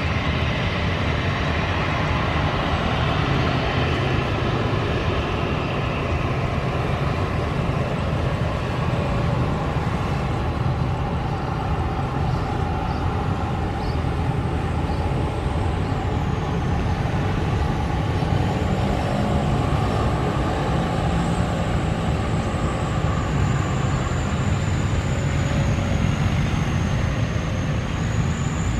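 Jet airliner engines running with a steady heavy rumble. A thin high engine whine comes in about halfway through and slowly wavers in pitch.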